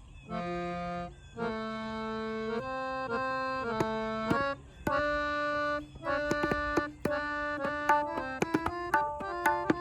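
Tabla solo over a looping lehra melody played in sustained reed-organ notes. The tabla strokes come in about four seconds in, sparse at first, then quicker and denser toward the end, ringing at a tuned pitch.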